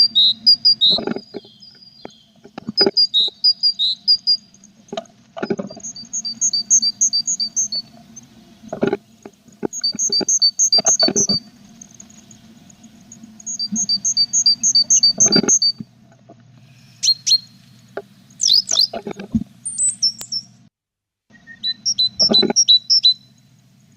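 Tit nestlings and their parent in a nest box, calling in short trains of fast high chirps, again and again, with knocks and scrapes of birds moving against the wooden box. A low steady hum runs underneath and drops out briefly near the end.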